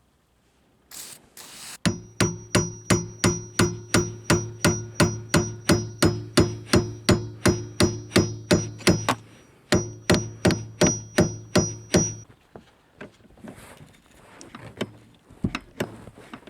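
Hammer pounding on a rust-seized metal seat hinge of a Pontiac Aztek. There is a fast, even run of about four blows a second, each with a metallic ring, then a short pause and a second run. A few lighter knocks come after.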